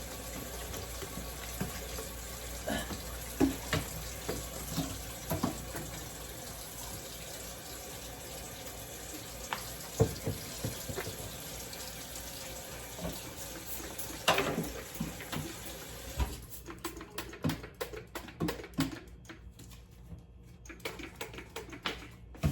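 Kitchen tap running into the sink as it is cleaned out, with occasional sharp clatters of items against it. The water shuts off about two-thirds of the way through, leaving scattered knocks and clinks.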